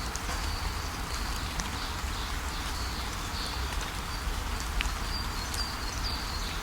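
Steady rainfall with a low rumble underneath and a few sharp drip ticks, while small birds chirp in short, high, repeated notes throughout.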